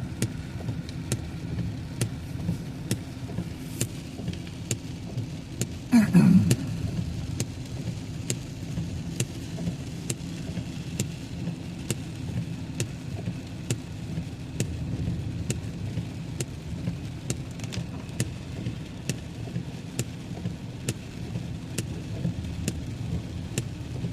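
Car driving on a wet road in heavy rain, heard from inside the cabin: a steady low rumble of road and engine, with evenly repeated sharp ticks about one and a half times a second. About six seconds in, a brief louder sound slides down in pitch.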